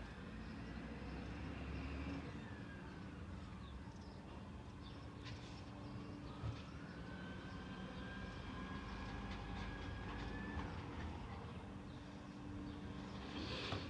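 Peterbilt 320 garbage truck's engine running steadily, with a whine from the truck that falls, then rises and holds for a few seconds before dropping away. A single sharp clank comes about halfway through.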